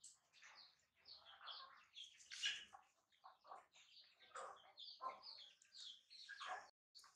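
Faint chirping of small birds: many short, quick high calls, some dropping in pitch, at irregular intervals.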